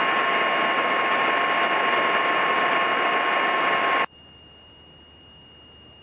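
Aircraft VHF radio hiss on an open channel with no voice, with a few thin steady tones in it. It cuts off abruptly about four seconds in as the squelch closes, leaving a faint hiss and a thin high whine.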